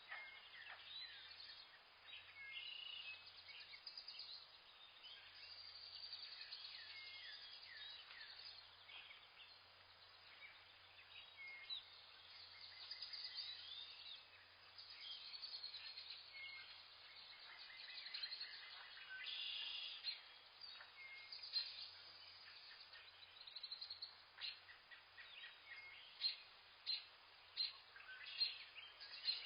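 Many small birds chirping and trilling together in a forest chorus, faint overall. Near the end comes a run of louder, sharp single chirps, several a second apart.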